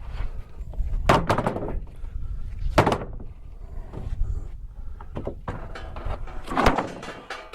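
Sawn red oak boards being handled and set down on a stack, with three sharp wooden knocks over a low background rumble.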